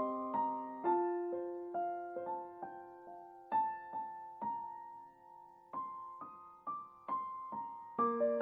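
Soft solo piano music, a slow melody of single notes that ring and fade, thinning out in the middle and picking up again near the end.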